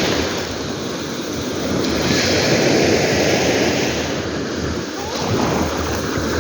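Sea waves washing in on the shore and drawing back: a continuous rush of surf that swells about two seconds in and eases again near the end.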